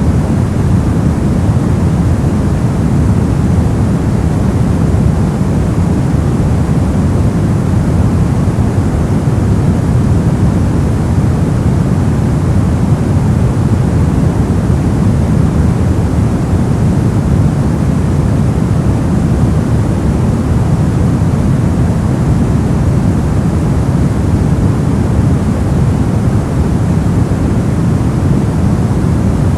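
Steady, unbroken noise track marketed as white noise, heavier in the deep end than the treble so it sounds like a low, even rush rather than a bright hiss. Constant level with no changes.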